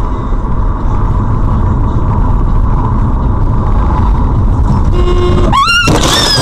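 Loud, steady rumble and rushing noise of a moving road vehicle. Near the end, electronic music comes in with a rising sweep.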